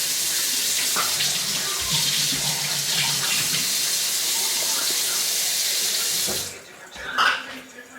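Water running hard from a kitchen tap for about six seconds, then cut off suddenly, followed near the end by a sharp clink.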